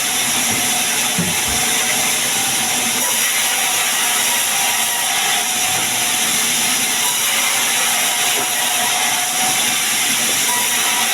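Sawmill saw cutting sengon wood into beams: a steady, hissing cutting sound with a faint whine underneath.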